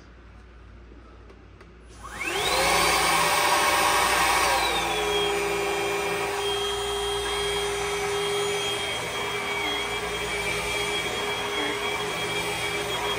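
Hart cordless stick vacuum switched on about two seconds in, its motor whine rising quickly as it spins up. About two and a half seconds later the pitch drops to a lower level, and it runs steadily after that.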